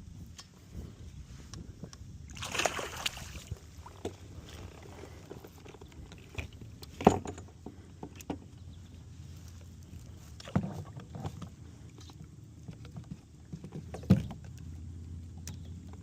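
Knocks and bumps on a kayak: scattered sharp knocks over a low steady rumble, the sharpest about seven and fourteen seconds in. A brief rush of noise, like water splashing or moving, comes about two and a half seconds in.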